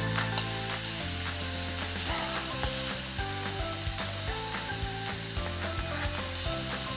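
Diced beetroot and onion sizzling in a coated frying pan as a metal spatula stirs it, with a few short scrapes and clicks of the spatula against the pan.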